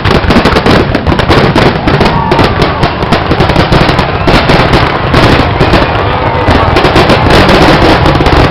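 Loud fireworks display: a dense, continuous barrage of overlapping bangs and crackles with no pause.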